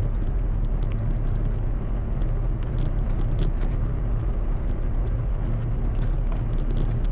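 Steady low rumble of riding a fat bike on snow: wind buffeting the microphone and the fat tyres rolling, with scattered small clicks and ticks throughout.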